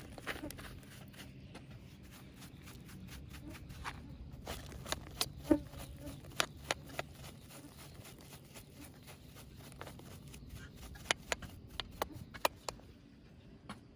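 Irregular sharp clicks and knocks, bunched about four to seven seconds in and again about eleven to twelve and a half seconds in, over a low steady hum.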